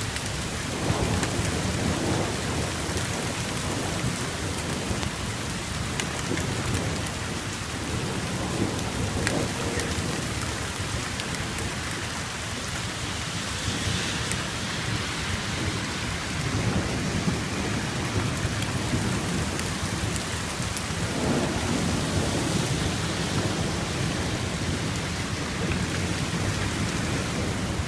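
Heavy rain pouring down steadily in a severe thunderstorm, with low rolls of thunder rumbling in several times.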